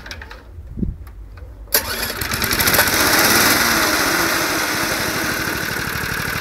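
3 hp Tecumseh small engine cold-started: it catches suddenly about two seconds in, revs up, then settles into a steady, even run.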